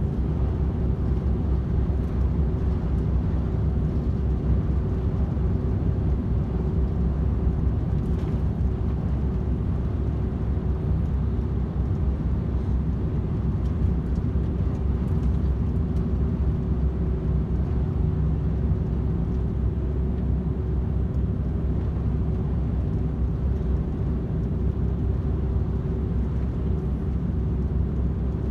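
DAF XF 510 truck cruising steadily on a motorway: an even engine drone and road rumble, with a constant low hum throughout.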